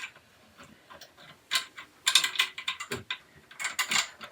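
Parts of a flat-pack storage rack clicking and rattling as they are fitted together by hand, in two short flurries of clicks with a single knock between them.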